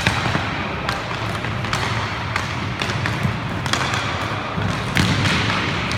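Roller hockey play echoing in a large hall: irregular sharp clacks of sticks and puck on the rink floor over a steady low rumble.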